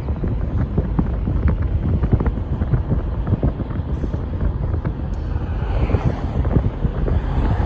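Wind buffeting the microphone: a loud, steady low rumble with constant crackling, which cuts off abruptly at the end.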